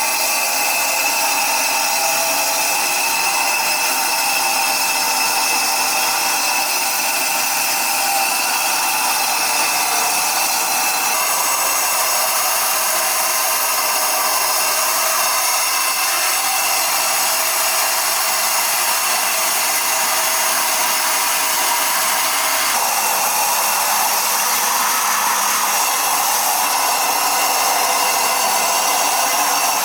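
Electric power tool working stone, running continuously with a high whine over a dense hiss; its tone shifts twice, about a third and two-thirds of the way through, as the load changes.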